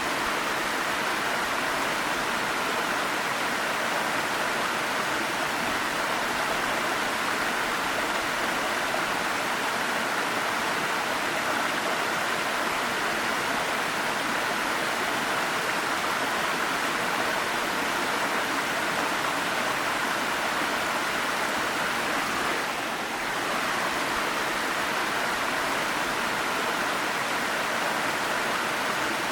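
Waterfall: a steady, even rush of falling water, easing slightly for a moment about three-quarters of the way through.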